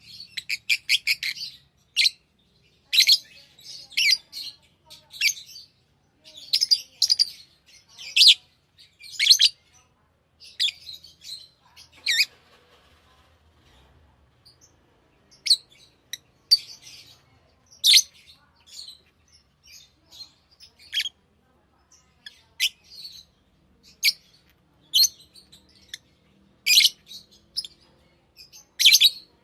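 Pet lovebirds chirping: short, sharp chirps in quick clusters, with a lull of a couple of seconds a little before the middle.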